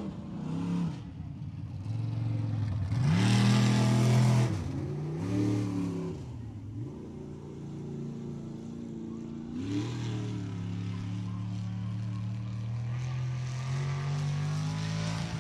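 Mud truck engine revving hard in surges as it runs through the mud pit. The pitch climbs sharply about three seconds in to its loudest, falls away, rises again near five and ten seconds, then holds a steadier high run that slowly climbs toward the end.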